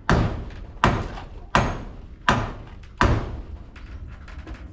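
A tool striking wood in a steady rhythm: five hard blows about three-quarters of a second apart, then a few lighter knocks near the end.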